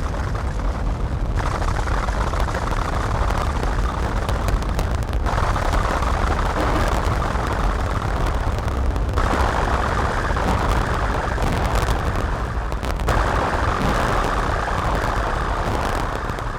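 Heavily distorted electronic noise drone from a modular synthesizer (Make Noise Strega, Maths, Morphagene) fed through Death By Audio fuzz and filter pedals: a dense, harsh wash over a deep rumble. A brighter, mid-pitched layer drops in and out in a loop about every four seconds.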